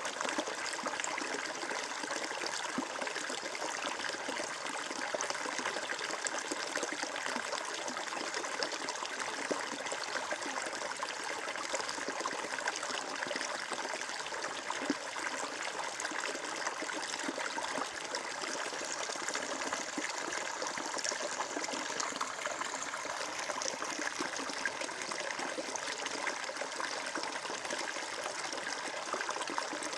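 Flowing water trickling and splashing steadily, a small stream running over stones.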